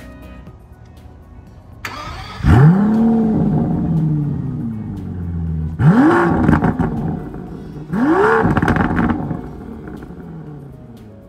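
2023 Aston Martin V12 Vantage's twin-turbo 5.2-litre V12 starting up: a brief crank about two seconds in, the engine catches with a flare of revs that falls back, then two quick throttle blips before it settles to idle. Soft background music is heard before the engine fires.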